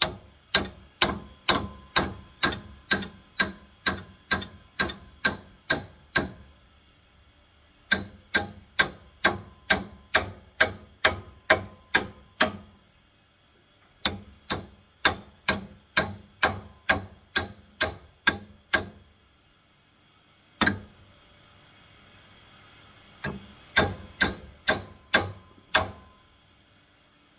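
Hammer striking metal in steady runs of about two to three blows a second, each blow sharp with a short ring. The runs stop for a second or two between them, then there is a single blow and a final short run near the end.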